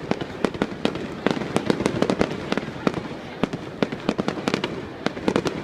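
Fireworks bursting overhead in a rapid, irregular string of sharp cracks, several a second.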